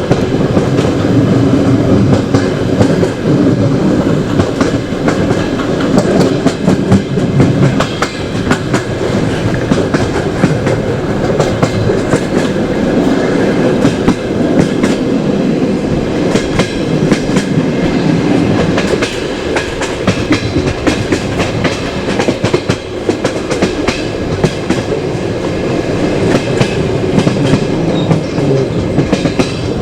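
Passenger train running on the rails, heard from a carriage window: a steady rumble with many sharp wheel clicks over the rail joints.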